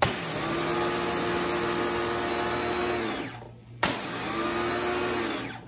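VEVOR electric pressure washer's motor and pump running with the water supply shut off, purging the last water out of the pump. It starts suddenly and runs for about three seconds with a steady whine, stops, then runs again for under two seconds.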